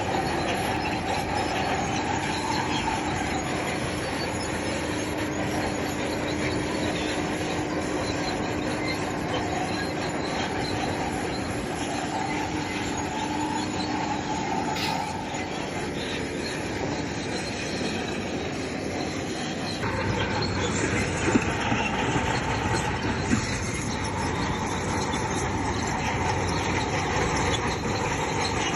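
Crawler bulldozer at work: diesel engine running and steel tracks squealing as it moves, steady throughout, with an abrupt change in the sound about two-thirds of the way in.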